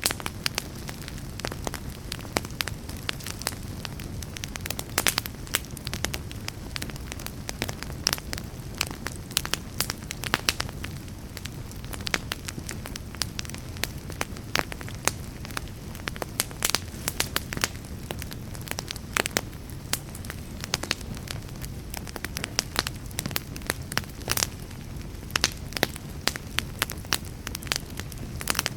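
Wood fire crackling, with frequent irregular pops and snaps, some much louder than others, over a steady low rumble.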